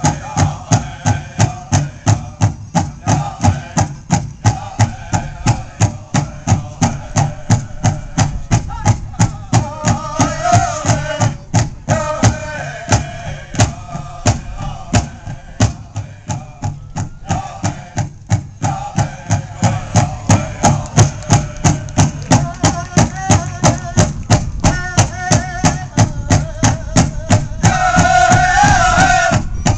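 Pow wow drum and singers performing a medium-fast song: a steady, even drumbeat with voices singing over it. The singing drops out briefly in the middle while the drum keeps going, then grows louder near the end.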